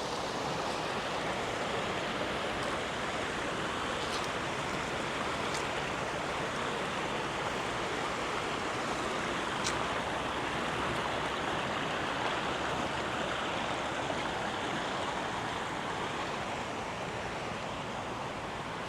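River water rushing steadily, easing slightly near the end.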